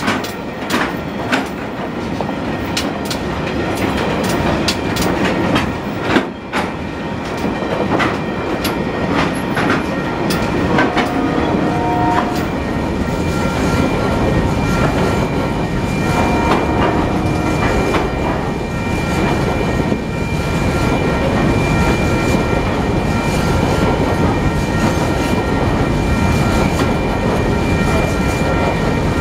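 A freight train's wagons roll past at close range, first loaded log wagons and then empty coal hopper wagons, with the wheels clicking over rail joints. From about halfway through, a thin, steady, high squeal from the wheels runs under the rolling noise.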